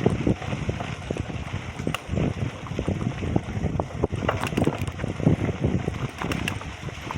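Wind buffeting the microphone in uneven gusts, with frequent short knocks and rattles.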